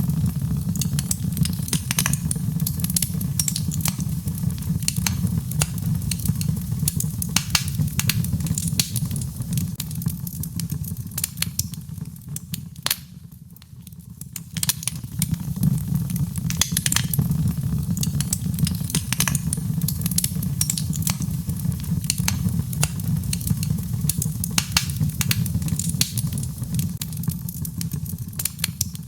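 Birchwood fire burning in a fireplace, crackling and popping with many sharp snaps over a steady low rumble; the crackling dies down briefly about halfway through, then picks up again.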